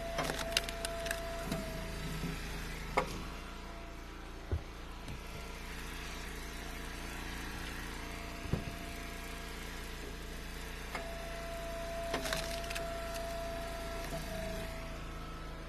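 Eastonmade hydraulic wood splitter running while splitting ash firewood rounds: a steady engine hum, with a held whine near the start and again later as the ram pushes, and sharp cracks of the wood splitting. Two dull thuds come in between.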